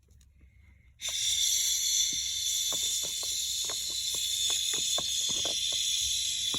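Toy kitchen sink's running-water sound starting about a second in and running steadily as a high hiss, with small plastic clicks and taps from handling the toy food and sink.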